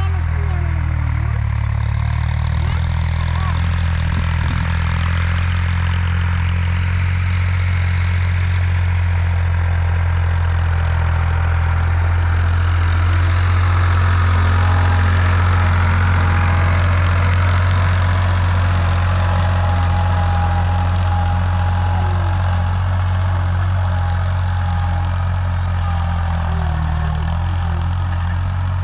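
Heavy diesel engine running steadily, a deep hum that swells a little midway and eases off again.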